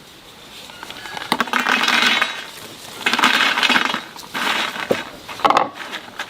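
Hard kitchen items clinking and rattling in a few separate bursts, each about a second long, with a sharper clink near the end.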